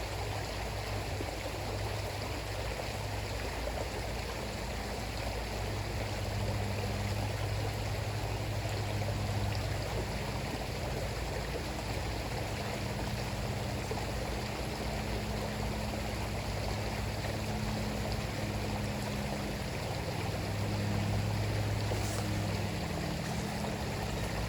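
River water flowing and rushing steadily, with a low hum underneath that swells and fades.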